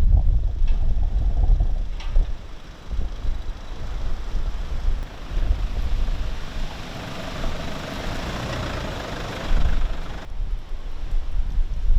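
Strong gusty wind buffeting the microphone, a heavy uneven rumble, with a hiss that swells in the middle and cuts off suddenly about ten seconds in.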